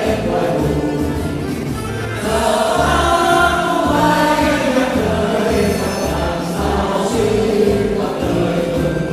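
Choir singing a song over instrumental accompaniment with a steady low beat.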